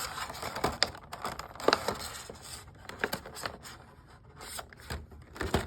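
Hands working a small plastic action figure and its packaging: irregular clicks, scrapes and rustles as the figure's jointed parts are moved into a new pose, with the sharpest click about a second and a half in.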